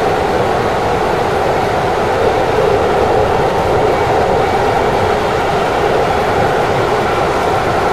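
Keikyu electric commuter train running at speed, heard from inside the front cab: a steady running noise of wheels on rails, with no breaks or changes.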